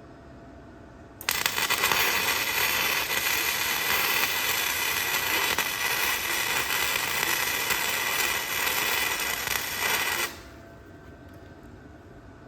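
Electric arc welder running a bead: a steady, dense crackle that starts sharply about a second in and cuts off suddenly after about nine seconds, when the arc is broken.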